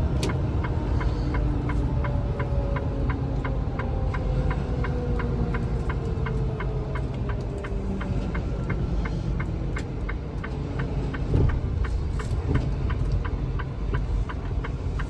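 Semi truck's diesel engine rumbling in the cab, its pitch slowly falling as the truck slows to pull over. Throughout, a steady light ticking, about three ticks a second, with a single knock near the end.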